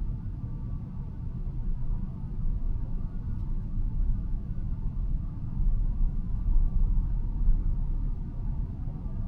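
Steady low road and tyre rumble inside a moving car's cabin, swelling a little past the middle.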